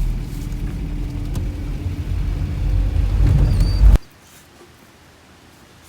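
A car running on the road, a low rumble with a steady hum, swelling a little before it cuts off abruptly about four seconds in.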